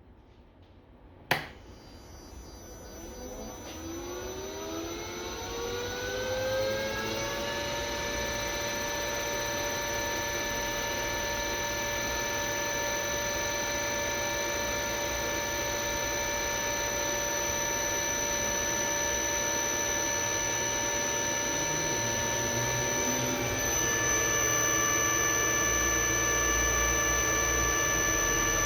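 AC motor driven by a Danfoss VLT FC-360 variable-frequency drive on a test run after repair. A sharp click comes about a second in, then a whine rises in pitch for about six seconds as the drive ramps the motor up. After that it runs steadily at speed with a high, steady whine.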